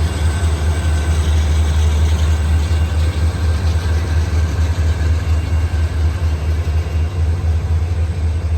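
Diesel freight locomotives, an ex-CSX GE Dash 8 leading an EMD SD40-2, working as they slowly pick up speed with a train: a loud, steady low rumble.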